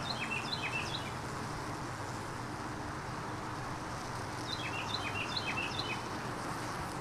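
A small bird singing two short phrases of quick chirps, one at the start and another about four and a half seconds in, over a steady outdoor hiss.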